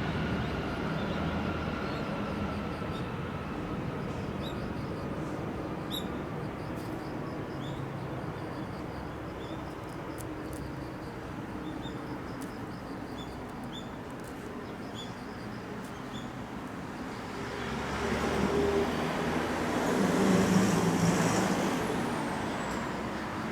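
Steady outdoor engine rumble of passing traffic, with a whine that slowly falls in pitch over the first several seconds. A louder passing vehicle swells up about 18 seconds in, peaks a few seconds later and fades near the end.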